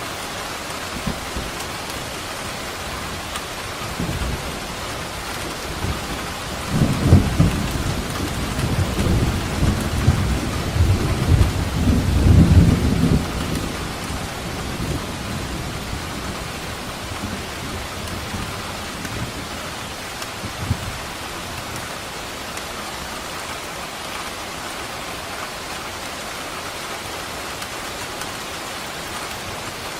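Steady heavy rain with a roll of thunder rumbling in about six seconds in, swelling twice and fading by about fourteen seconds.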